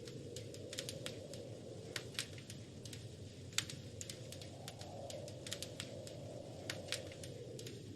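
Wood fire crackling in a fireplace: irregular sharp pops and snaps, a few a second, over a steady low rush of the flames.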